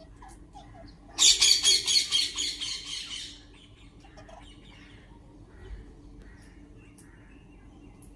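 Parrot screeching: a loud, harsh run of rapid squawks starting about a second in and fading out over about two seconds, with faint chirps around it.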